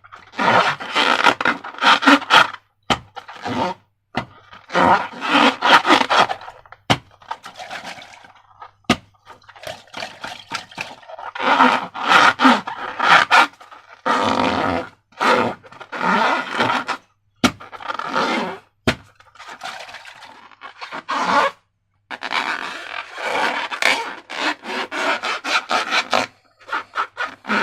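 Slime and balloon rubber being squeezed and worked by hand, in irregular bursts of a second or two with short gaps, and a few sharp clicks between them.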